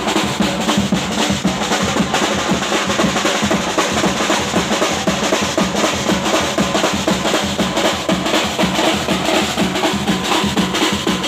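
Loud, continuous drumming with many rapid strokes, heard together with music.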